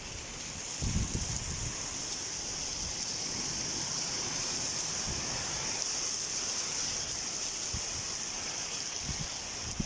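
Heavy rain falling as a steady hiss, with a brief low rumble about a second in.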